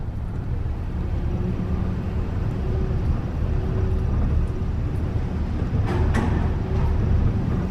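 Off-road 4x4 engine running with a steady low rumble, and a brief gust of noise about six seconds in.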